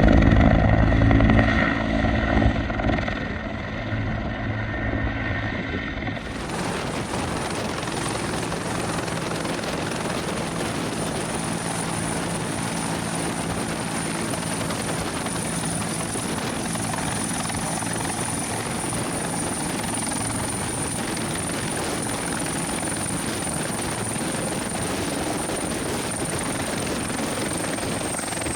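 Bell 412HP helicopter, its twin turboshaft engines and four-blade rotor running. It is loud with a low rotor beat at first, then after a sudden change a few seconds in settles into a steady rushing noise with a high turbine whine as it comes in to land. The whine drops slightly in pitch near the end.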